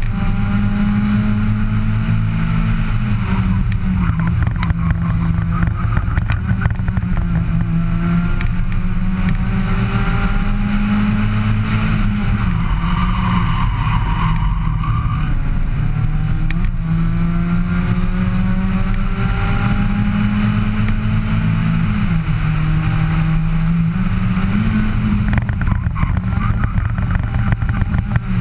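Abarth 500 race car's engine pulling hard up a hillclimb, its pitch climbing through each gear and dropping back at every upshift, easing off briefly about halfway through for a tight bend. Wind and road noise mix in from the camera on the bonnet.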